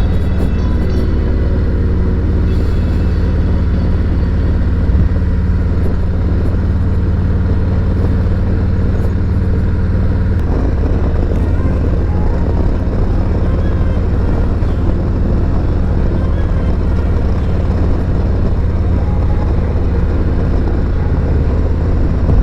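Harley-Davidson Road Glide Special's V-twin engine running through S&S MK45 slip-on mufflers while riding at a steady pace, with wind rushing over the microphone. The engine note changes about halfway through.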